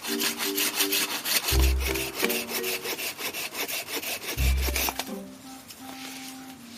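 Wood being sawn by hand, a fast even rasping that fades after about five seconds, over background music.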